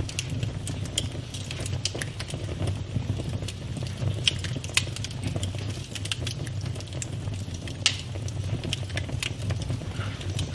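Campfire burning with a steady low rumble of flames and frequent irregular crackles and snaps of burning wood, a few sharper pops among them.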